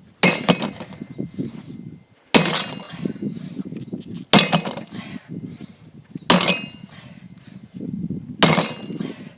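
Pickaxe striking a heavy metal container from a mini fridge, five blows about two seconds apart, each a sharp clank with a short metallic ring; the part does not give way.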